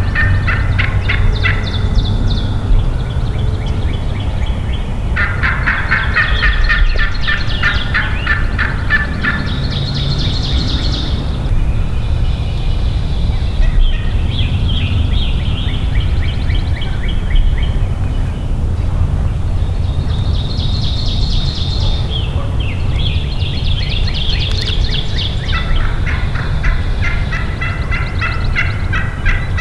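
Eastern wild turkey gobbling repeatedly: about seven rattling gobbles, some of them overlapping, over a steady low rumble.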